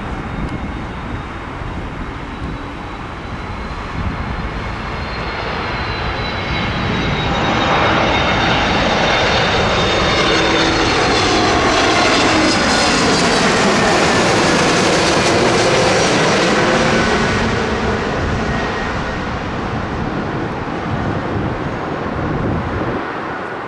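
Airliner passing low overhead. Its engine noise swells to a loud peak for several seconds mid-way and then fades, with high whining tones gliding downward in pitch as it goes by.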